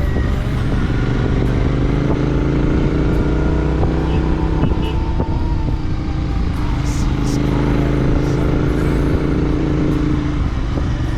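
Royal Enfield Continental GT 650's 648 cc parallel-twin engine running steadily under way. Its note rises and falls gently with the throttle and drops near the end.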